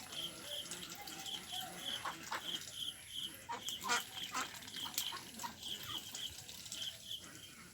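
Ducks calling, over a short high chirp that repeats about two to three times a second.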